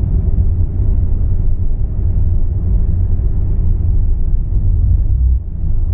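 Tata Altroz diesel heard from inside the cabin, running with a steady low rumble as the car rolls slowly in fifth gear without throttle, the engine lugging at low revs.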